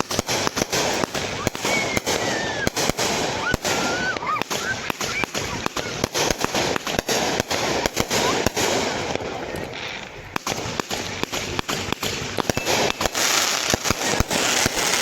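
Fireworks going off in rapid succession: a dense run of sharp bangs and crackles with hardly a pause.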